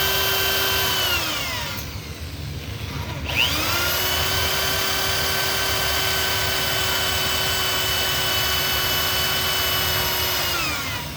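Handheld electric drill boring holes in a small-block Chevy's cast-iron block for the lifter hold-down tray bolts. It runs at a steady whine, winds down and stops, then starts again with a click and runs steadily before winding down near the end.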